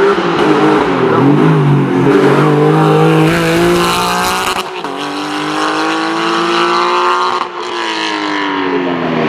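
Porsche racing car's engine pulling hard, its pitch climbing through a gear. About halfway through it cuts briefly for an upshift and climbs again. Near the end it dips once more and the pitch falls away as the car passes and slows.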